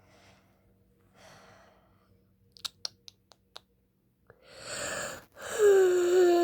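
A few sharp clicks, then two loud breathy exhales near the end, the second a long sigh whose pitch slides down.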